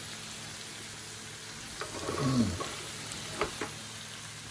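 Chicken back and sweet peppers frying in a pan with a steady sizzle as a wooden spoon stirs them, with a few light knocks of the spoon against the pan. A short falling hum about halfway through.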